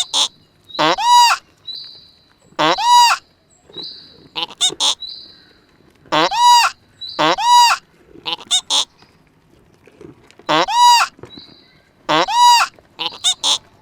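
A large bird giving repeated loud, goose-like honks, each about half a second long and rising then falling in pitch, roughly every one to two seconds, with quick runs of shorter honks in between.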